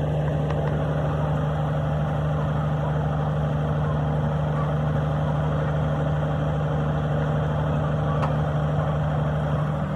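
An engine running at a steady speed, giving a constant low hum.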